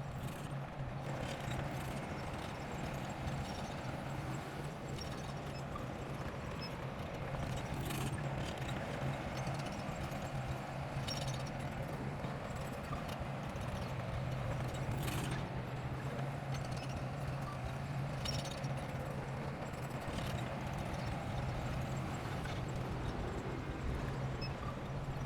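Bulldozer's diesel engine running steadily with a rapid, even clatter, and a few sharper clanks every few seconds.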